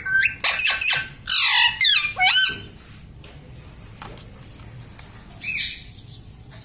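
Pet parrot making a quick run of shrill, pitch-bending squawks, then after a pause one more short call.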